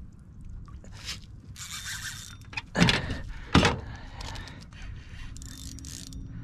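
Handling noise: two sharp knocks a little under a second apart about three seconds in, with rustling and scraping between them over a low rumble.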